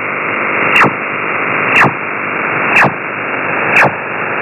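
Radio receiver static, a steady hiss, crossed about once a second by a short click and a quick falling chirp that sweeps from high to low pitch; four or five of these repeat evenly.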